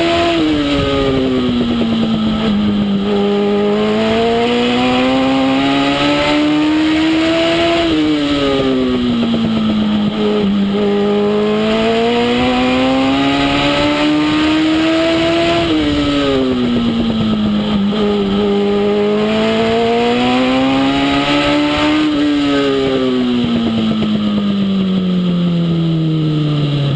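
Legend car's Yamaha four-cylinder motorcycle engine running hard on a short oval. Its pitch climbs on each straight and drops off into each turn, about every eight seconds. Near the end it falls away steadily.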